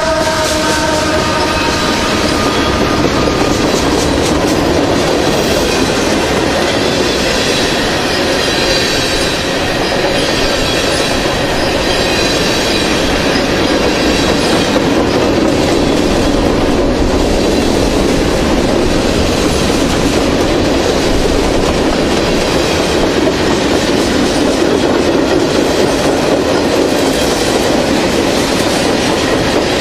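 Freight train cars rolling past close by at speed: a loud, steady rumble with wheels clicking over the rail joints. The locomotive horn is just fading out about a second in.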